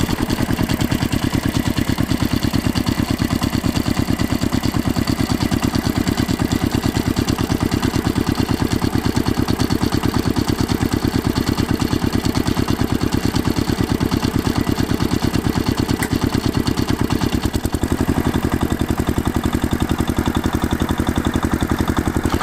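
Tractor engine sound, a diesel idling steadily with a rapid, even chugging.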